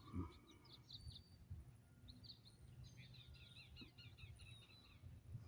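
Faint wild birdsong: scattered short chirps, then about three seconds in a quick run of repeated short notes lasting just over a second, over a low outdoor rumble.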